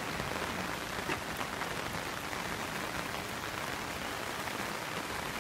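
Heavy rain falling steadily on a river's surface: an even hiss with scattered single drops ticking through it.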